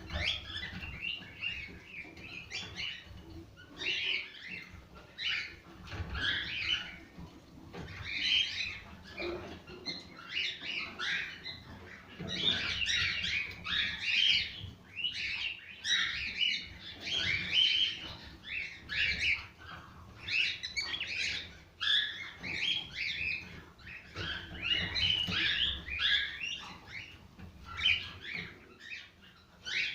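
A group of cockatiels chirping and calling together, many short high calls overlapping in a continuous chatter.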